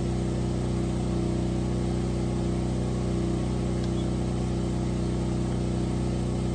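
Vehicle engine running at a steady speed, a low even hum.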